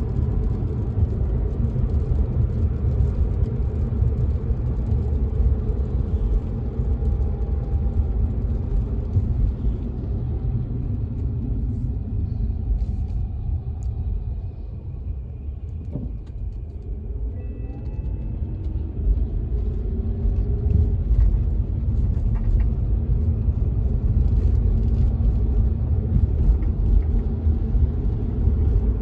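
Steady low road and tyre rumble heard from inside a car driving on wet roads, with faint light tapping of rain on the car. The rumble eases off for a few seconds around the middle, with a single soft knock, then builds again.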